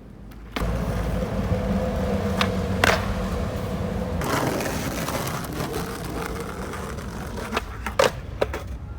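Skateboard wheels rolling on wet pavement, a steady rumble with a low hum. Sharp board clacks come about three seconds in and again a second before the end.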